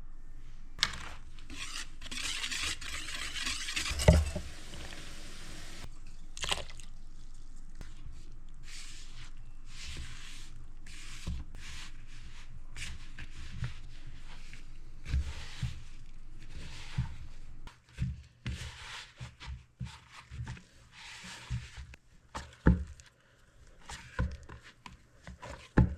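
Bread dough being mixed and kneaded in a bowl: repeated squishing and scraping strokes, about one a second, with a few knocks against the bowl.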